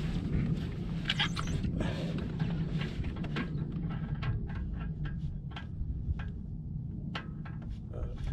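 Scattered light clicks and metallic taps of hand tools and parts being handled at uneven intervals, over a steady low hum.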